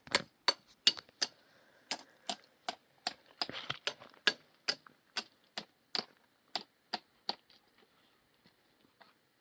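A run of sharp taps or clicks, about two to three a second, becoming sparser and fainter near the end.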